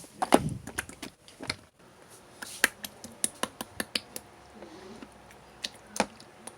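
A string of sharp, irregular clicks and light taps, with a heavier knock about half a second in.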